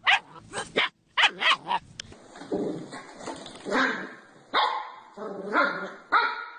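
Dogs barking: a quick run of short, sharp barks in the first two seconds, then slower, fuller barks roughly once a second.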